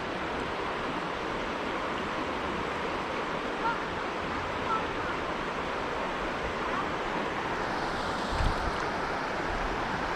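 Steady rush of a small creek's water flowing over rocks, with two short high chirps in the middle and a brief low bump near the end.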